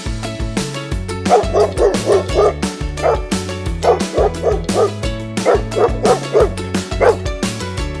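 Small poodle puppy yipping in quick runs of four or five short, high barks, then single barks, over background music with a steady beat.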